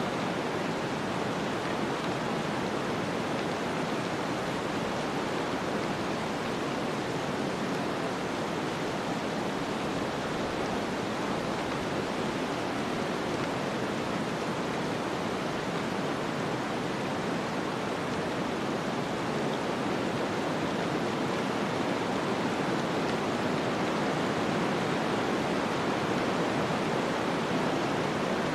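Snowstorm ambience: a steady, even rushing noise of wind-driven snow, without separate gusts or distinct sounds.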